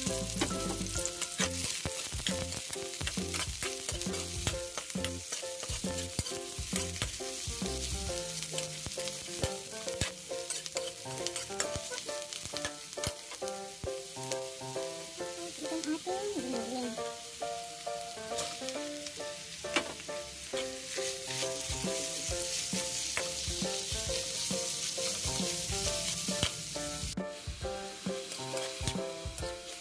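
Ground pork and chopped banana heart sizzling in hot oil in a frying pan, being sautéd to half-cooked, with repeated clicks and scrapes of a spatula stirring against the pan.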